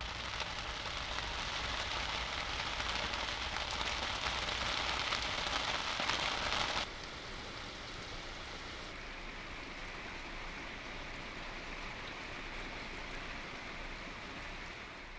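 Steady rain falling, a continuous even hiss that drops abruptly to a quieter level about seven seconds in.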